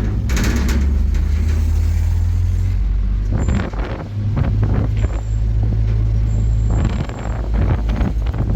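A vehicle engine running, a loud, steady low rumble with wind noise, easing briefly twice.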